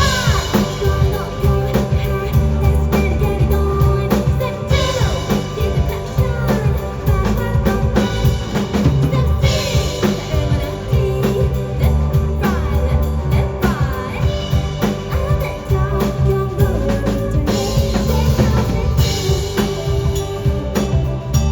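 Live band playing a song, driven by a full drum kit with kick and snare hits over sustained bass and other instruments.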